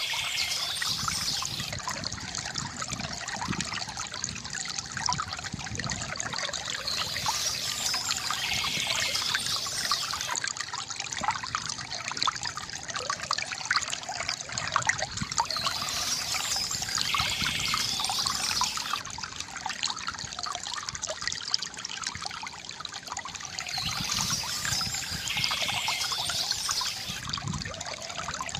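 Water trickling and splashing steadily from a bamboo fountain, with a short burst of high bird chirping coming back about every eight seconds.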